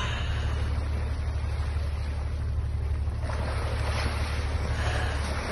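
Boat engine running as a steady low drone, with wind and water noise over it.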